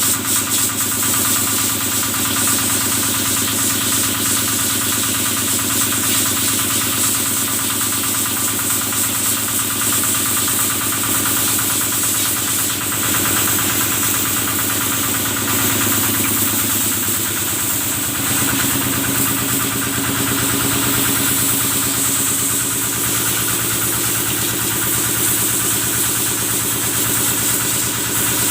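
Kubota engine running a cattle-washing water sprayer, running steadily with an even firing beat; its note shifts slightly about two-thirds of the way through. A steady high hiss sits above the engine.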